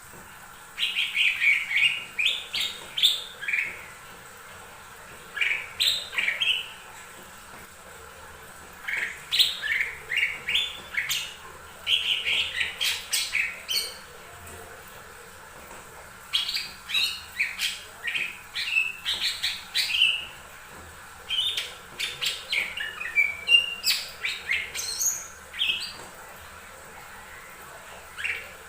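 Cucak ijo mini (small green leafbird) singing: bouts of quick, varied chirping and whistled notes lasting two to three seconds each, broken by short pauses, about eight bouts in turn.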